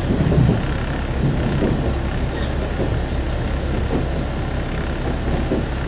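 Single-car diesel railcar heard from inside the passenger cabin: a steady engine drone and low rumble, with a few soft knocks.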